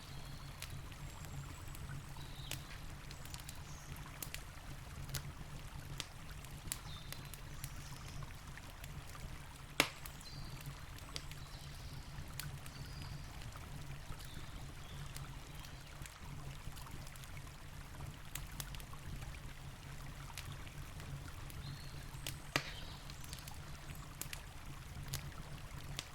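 Campfire crackling with scattered sharp pops, the loudest about ten seconds in, over the steady low rush of a river.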